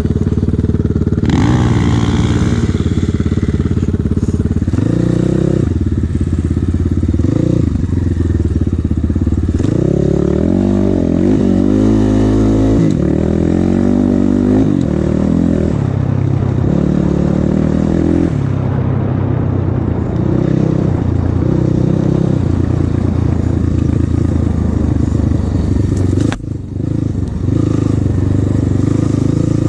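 Off-road enduro motorcycle engine running while being ridden, its pitch rising and falling as the throttle opens and closes. There is a brief drop in level about 26 seconds in.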